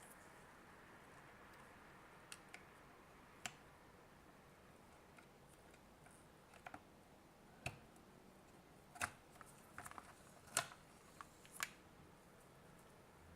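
Scattered small clicks and taps from handling the parts of an opened digital multimeter, a few at first and more in quick succession in the second half, over near-silent room tone.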